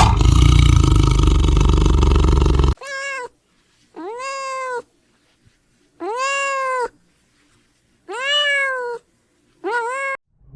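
A loud, rough low sound that cuts off abruptly about three seconds in, followed by a cat meowing five times, each meow under a second, rising then falling in pitch, with silent gaps between.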